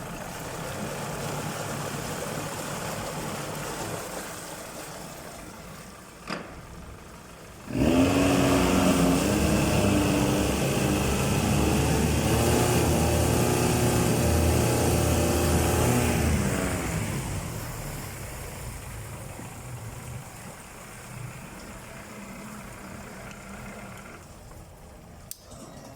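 Yamaha F115AET four-stroke outboard motor running at low speed. About eight seconds in it is revved up sharply and held higher and louder for about eight seconds, then drops back to a steady low running.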